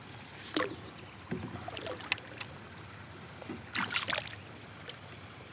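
Water splashing and dribbling beside a kayak, in a handful of short irregular splashes and knocks, the loudest cluster a little after the middle.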